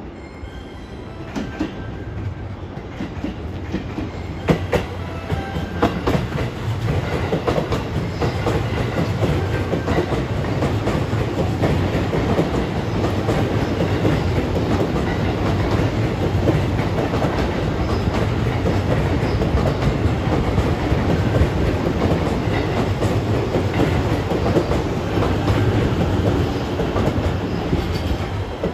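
JR East E257 series 2000 electric limited-express train arriving at a station platform. Its steel wheels clatter over rail joints and points, and the running noise builds over the first few seconds, then holds steady as the cars pass close by.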